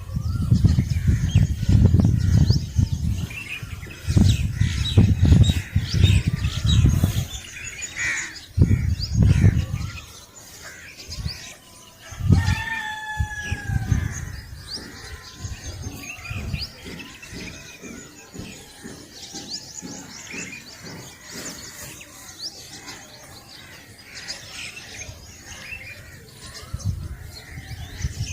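Many small birds chirping and twittering together at dawn, with one longer, falling call partway through. Bursts of low rumble come and go through the first half and are the loudest sound.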